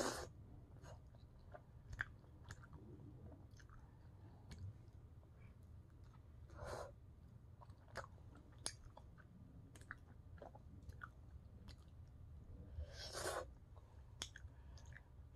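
A person chewing a soft flatbread wrap close to the microphone, with many small wet mouth clicks. Three louder, noisier sounds come right at the start, about seven seconds in, and about thirteen seconds in.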